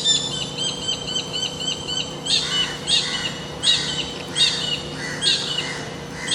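Kingfisher calling: a quick run of short, high repeated notes, then louder, harsher calls repeated about every three-quarters of a second.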